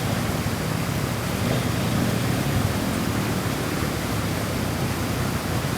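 Steady rushing of a rain-swollen river, an even noise with no breaks or separate events.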